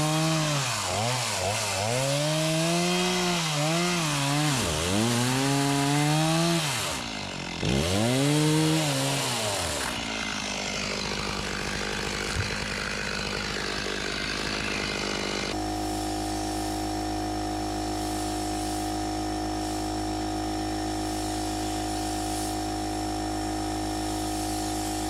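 Chainsaw revving up and down as it cuts the deck board ends straight, its pitch rising and falling over and over for about ten seconds. A steady, even hum takes over later on.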